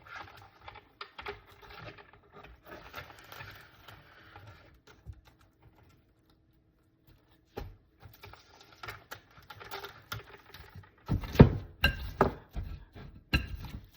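Plastic cling wrap being pulled from the roll and crinkled over a bowl, followed near the end by a few loud knocks and clatters of kitchen handling.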